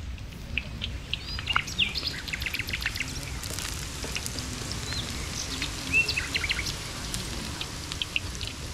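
Small birds chirping, many short calls with quick pitch hooks, over scattered light clicks and crackles.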